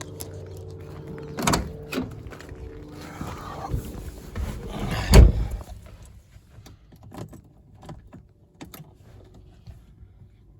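1981 Isuzu Pup's 2.2-litre C223 diesel being cranked on the starter for a few seconds without catching: a hard-starting engine. The loudest moment is a thump about five seconds in, after which the cranking stops and only scattered clicks remain.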